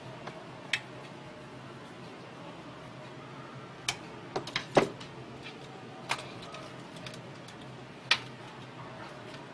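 Scattered short, sharp clicks and taps of small parts or tools being handled, about seven in all, several bunched together around the middle, over a low steady hum.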